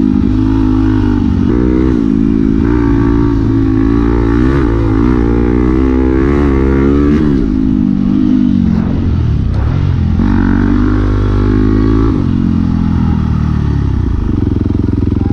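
Dirt bike engine running hard on a trail ride, its pitch rising and falling over and over as the throttle is worked. The pitch dips about halfway through, then steadies at a lower pitch near the end.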